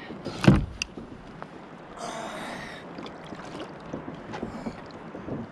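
A thump about half a second in, then a short rush of water a couple of seconds in, over faint sloshing: rough sea washing against a kayak.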